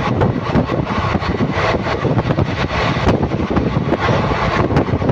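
Moving train heard from aboard: a steady loud rumble with constant, rapid, irregular rattling and clatter of wheels and carriage.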